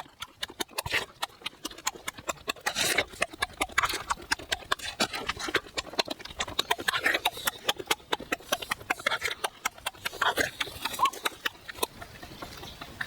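Close-up eating sounds: rapid, irregular chewing and wet lip smacks.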